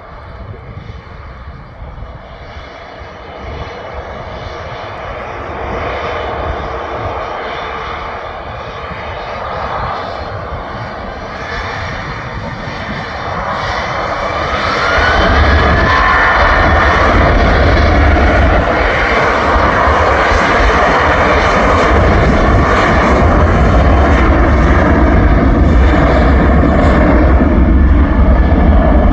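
Boeing 737-800's twin CFM56 turbofan jet engines at takeoff power on a departing airliner. The noise grows steadily louder over the first half and stays loud after that.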